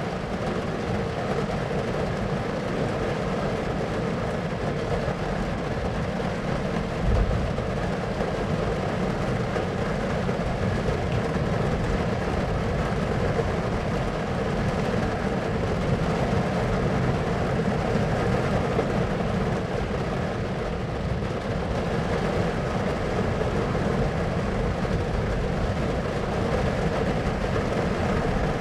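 A steady, dense rumbling noise, with a brief low thump about seven seconds in.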